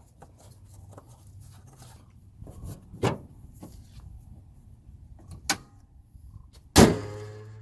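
A few sharp clicks and knocks of the engine oil filler cap being put back on, then a single loud bang with a short ringing tail near the end.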